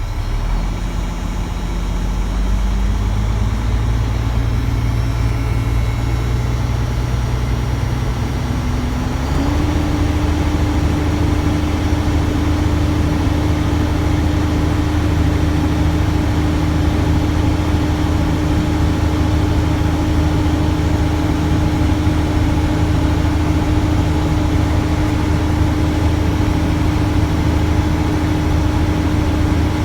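Diesel truck engine raised from idle to a steady 1500 RPM. Its pitch climbs over the first nine seconds or so, then holds steady while the air compressor builds brake pressure toward governor cut-out.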